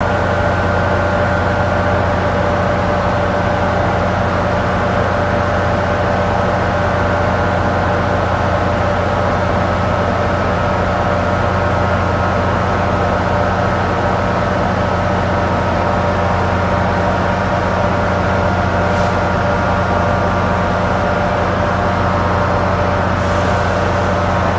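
Steady drone of a train idling at the platform, holding several fixed pitches at an even level. Two faint brief hisses come near the end.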